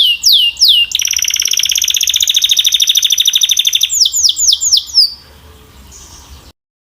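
Belgian canary singing loudly: a series of falling whistled notes, then a fast rolling trill from about a second in until about four seconds, then a few more falling notes before the song stops a little after five seconds. The audio cuts to total silence shortly before the end.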